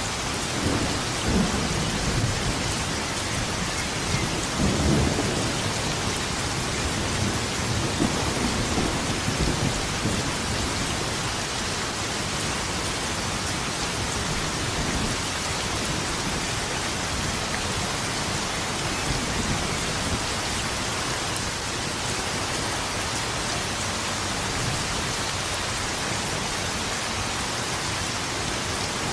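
Steady heavy rain with thunder rumbling several times in the first third, then mostly steady rain with only faint distant rumbles.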